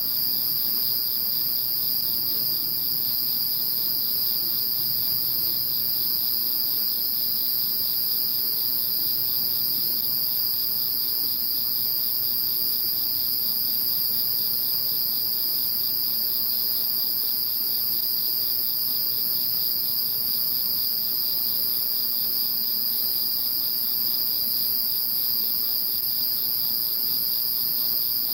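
A chorus of insects singing steadily, two high-pitched songs layered together, the lower one with a fast, even pulse.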